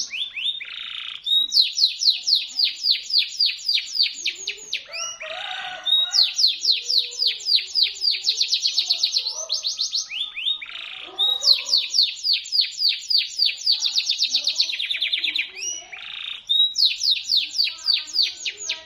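Domestic canary singing a shrill, sharp song: four long trills of rapidly repeated high notes, each lasting a few seconds, with short breaks between them.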